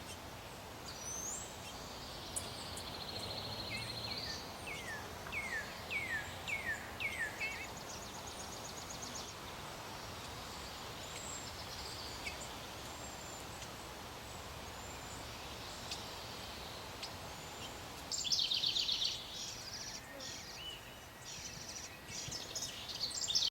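Wild birds calling over steady outdoor background noise: a run of about six quick falling notes, a high trill, then a louder burst of chirps near the end.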